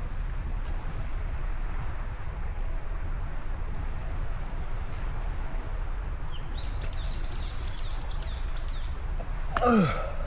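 A bird calls a quick run of about six high, falling chirps over a steady low rumble. A loud, falling cry comes near the end.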